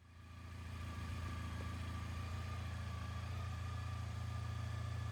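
Honda ST1300's 1300 cc V4 engine idling steadily, running to warm the oil before it is drained. It fades in over the first second, then holds an even, unchanging idle with a faint whine above the low hum.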